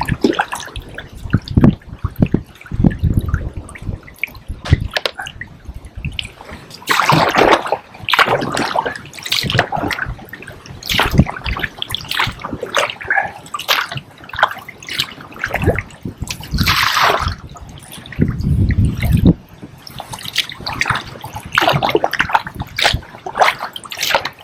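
Kayak paddle strokes: the blades dipping and pulling through the water, with splashing and dripping at an uneven pace of strokes.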